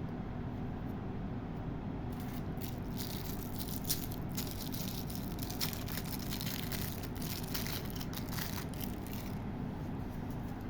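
Candy packaging being handled, with small hard candies rattling and the pack crackling: a dense run of clicks starting about two seconds in and stopping near the end, over a steady low background hum.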